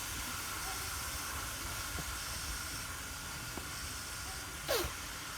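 Steam locomotive standing and hissing steam steadily. Near the end comes one short squeak that falls quickly in pitch.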